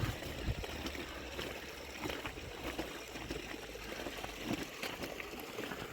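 Running water trickling steadily, with scattered small drips and splashes.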